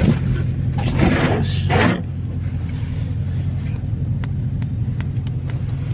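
Car engine running with a steady low rumble, heard from inside the car, with a few short rustling noises in the first two seconds.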